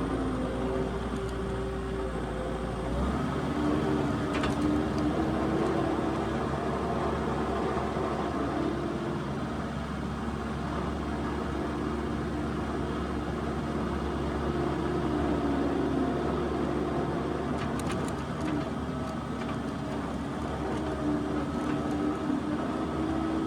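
New Holland LS170 skid steer's diesel engine running steadily as the machine drives through snow, its pitch stepping up about three seconds in and wavering with load after that.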